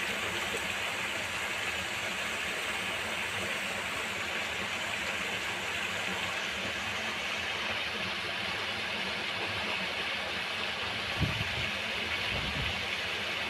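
Steady rain falling, an even hiss with no let-up. A couple of soft low thumps come in near the end.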